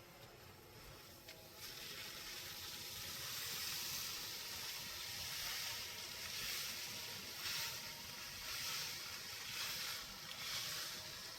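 Granular cat litter shifting and rustling as a faint hiss that comes in swells.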